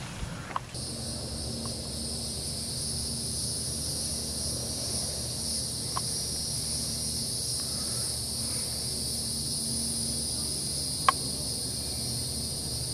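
Insects chirring steadily, a high continuous buzz that sets in under a second in. A few faint clicks sound over it, the clearest about 11 seconds in.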